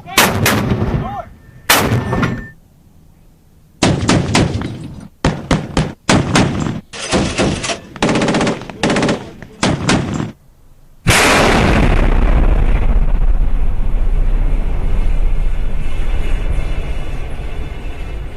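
Gunshot sound effects: a few single shots with ringing tails, then short bursts of rapid automatic gunfire. About eleven seconds in, a sudden loud blast gives way to a steady heavy rumble that runs on.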